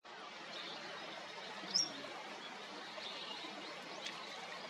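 Short high bird chirps over a steady outdoor hiss, one sharp chirp louder than the rest about two seconds in and fainter ones later.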